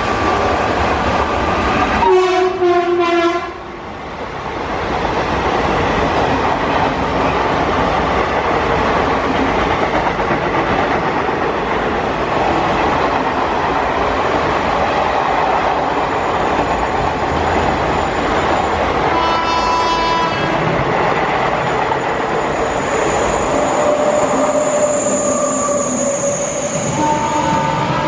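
Indian Railways train running past with steady rail noise, its locomotive horn sounding briefly about two seconds in and again about nineteen seconds in.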